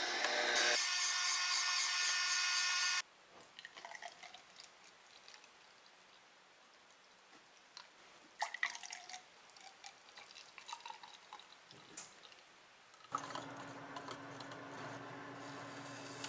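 A loud, steady whirring noise that cuts off suddenly about three seconds in, followed by soft dripping and light clicks, before a steady hum with tones returns near the end.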